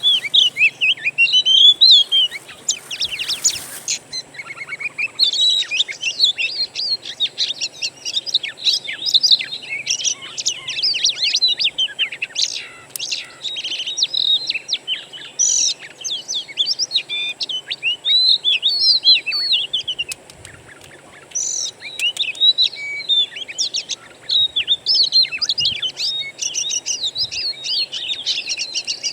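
Oriental magpie-robin (kacer) singing a long, varied song of clear whistles, chirps and rapid trills, with a brief harsh noise about three seconds in and a short pause about twenty seconds in.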